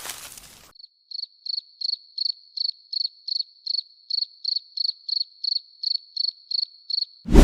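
Cricket chirping sound effect: short high trilled chirps, about three a second, evenly spaced, with silence between. A loud whack cuts in just before the end, after a brief crunching at the very start.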